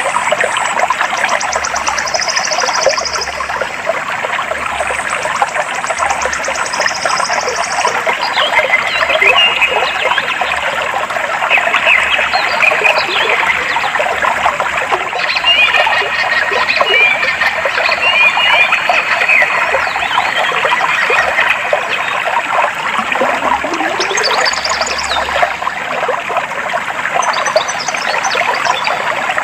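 Clear stream water flowing steadily, with birds chirping over it in short high calls. A rapid high trill comes twice in the first eight seconds.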